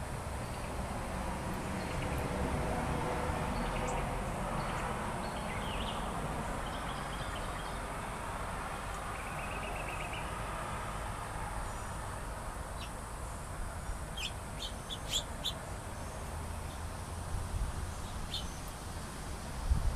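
Small birds chirping: scattered short calls and a brief trill about halfway through, over a steady low background rumble.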